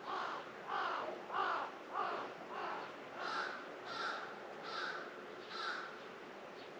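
A crow cawing, a run of about nine caws in quick succession, the last four higher and shorter than the first.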